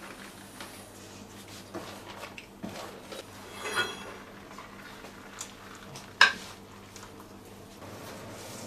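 Kitchen dishes and utensils clattering: a few light clinks, a ringing metallic rattle about four seconds in, and a sharp knock a little after six seconds.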